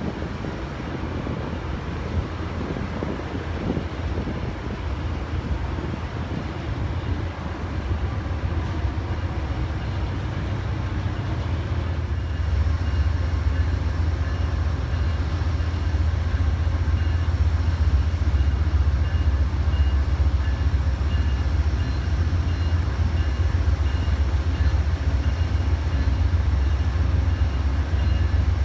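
A train running by with a steady low rumble that grows louder about twelve seconds in.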